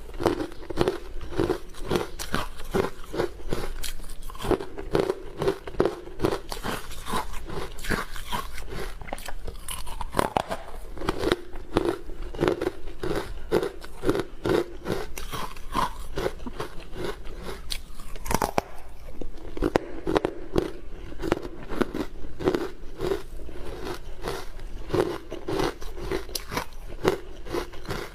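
Close-miked biting and chewing of hard frozen matcha ice: a continuous run of sharp cracks and crunches at a chewing rhythm of a few bites a second.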